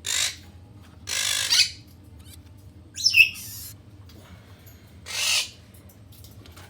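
Quaker parrot (monk parakeet) giving four loud, harsh squawks a second or two apart, the second one longer.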